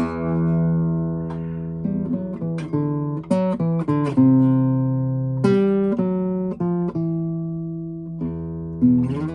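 Instrumental introduction on acoustic guitar: plucked notes and strummed chords ringing out, with no singing.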